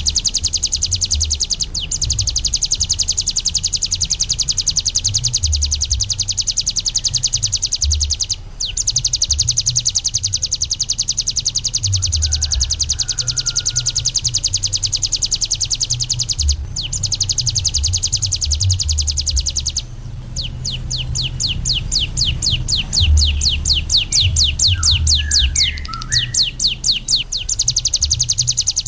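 Ciblek gunung, a small prinia, singing a fast, continuous high-pitched trill broken by a few brief pauses. About two-thirds of the way through, the song slows into a string of separate, downward-sliding notes that grow louder, then returns to the rapid trill. A low rumble runs underneath.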